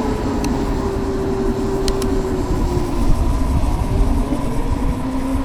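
Savic C3 electric motorcycle riding, its drivetrain whine slowly falling in pitch as it slows, over a low rumble of wind and road noise.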